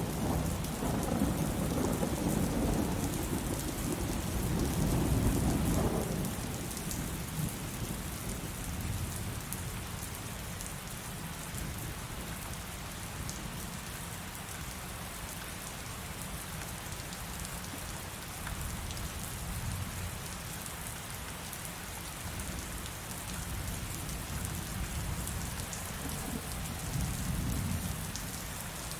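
Heavy rain falling steadily, with a roll of thunder rumbling through the first six seconds or so and dying away, and a softer rumble of thunder near the end.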